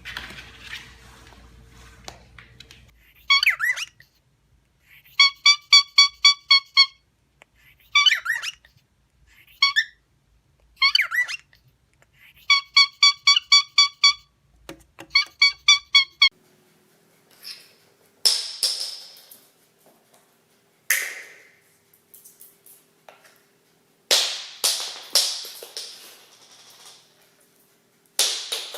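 Parrot calling: runs of quick, sharp, pitched notes, about five a second. In the second half these give way to several harsh squawks.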